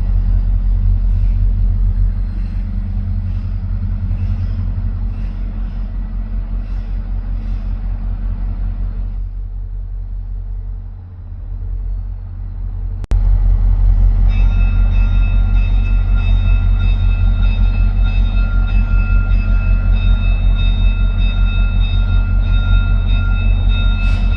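VIA Rail F40PH diesel locomotive engine running with a low, steady rumble. After a sharp click about halfway through, steady high-pitched whining tones join the rumble.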